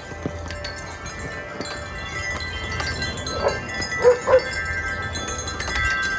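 Several wind chimes ringing steadily in strong wind, with wind rumbling on the microphone. About three or four seconds in, a dog gives three short barks, the loudest sounds.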